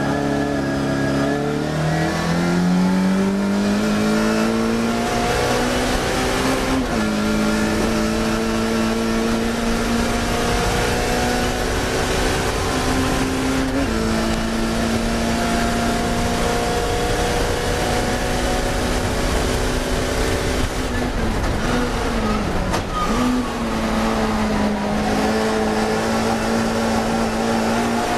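Classic Mini's four-cylinder A-series racing engine at high revs. Its pitch climbs for the first six seconds or so and drops at a gear change about seven seconds in. It then holds high with small steps, dipping briefly as the throttle lifts about two-thirds of the way through before picking up again.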